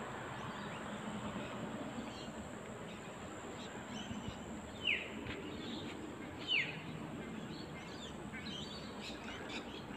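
Birds calling outdoors: two short, clear chirps that slide downward, about a second and a half apart, midway through, with fainter chirps later, over steady low background noise.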